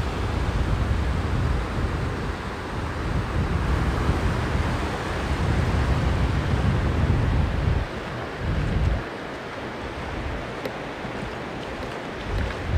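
Sea surf washing on a sandy beach, with wind buffeting the microphone as a low gusty rumble that eases off for a few seconds in the second half.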